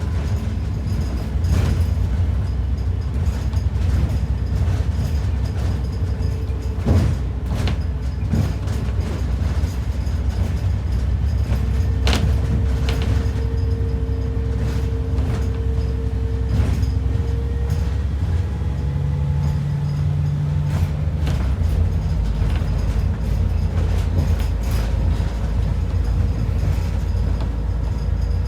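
Inside an ADL Enviro 400 double-decker bus on the move: a steady low rumble of engine and road, with a few sharp rattles and knocks from the body and a faint whine that comes in for several seconds around the middle.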